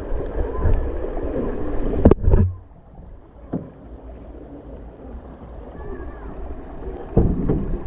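Rain and water noise with a low rumble on the microphone, broken by two sharp knocks about two seconds in. After the knocks it is quieter, and it gets louder again near the end.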